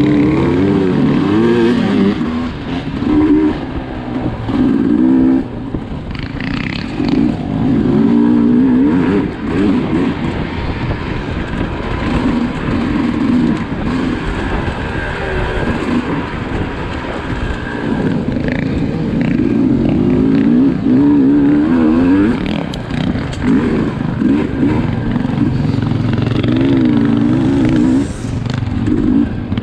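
Two-stroke Sherco 300 SE enduro motorcycle engine revving up and down over and over as it is ridden hard, the throttle opening and closing every second or two.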